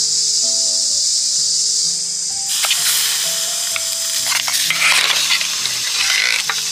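Insects trilling steadily over background music; about two and a half seconds in, a broader sizzle with a few clicks takes over, like food frying in a pan.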